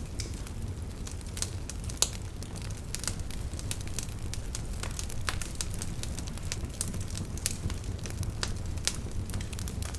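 Wood fire crackling with irregular sharp pops, the loudest about two seconds in, over a steady low rumble of the flames.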